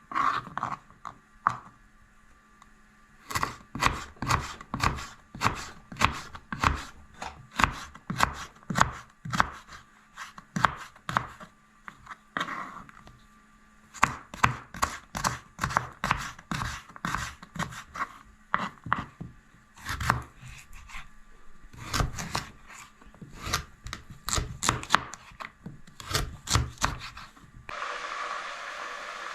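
Knife chopping on a cutting board in quick runs of strokes, about two to three a second, with short pauses between runs. Near the end the chopping stops and a steady hiss begins.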